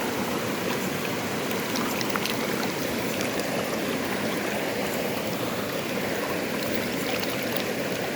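Steady rush of a waterfall and its stream running over rocks, with a few faint small clicks.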